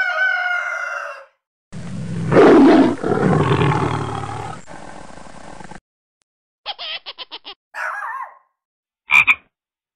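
Caged grey parrot calling: a pitched call, then a long, loud crowing-like call, then a quick run of short clipped notes and brief squawks near the end.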